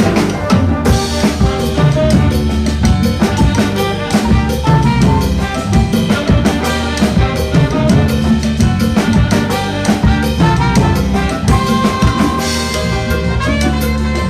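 Latin big band playing a salsa-style arrangement live: trumpets, trombones and saxophones over drum kit, congas, timbales, piano and bass. A single horn note is held out near the end.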